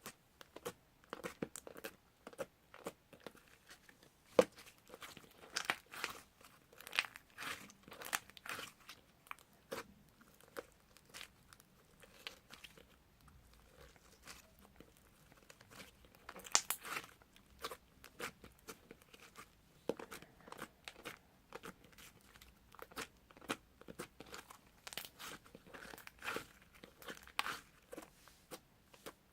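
Slime being squished, stretched and poked by hand, giving irregular small clicks, crackles and pops.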